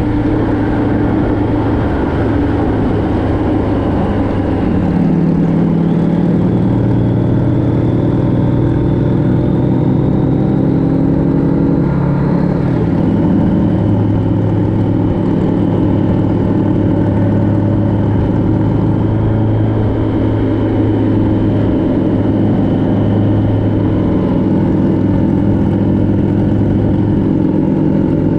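Vehicle engine running steadily under way, its pitch shifting about five seconds in and changing sharply about twelve seconds in.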